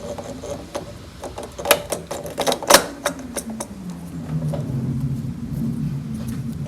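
Metal parts clicking and knocking as a new carburetor is set onto the engine's intake, with a steady low hum coming in about halfway through.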